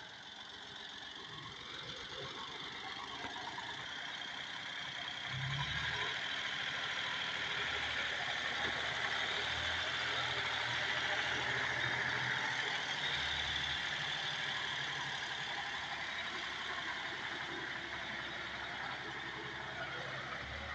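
Ford tractor engine running steadily, growing louder over the first several seconds, then holding and easing off slightly near the end.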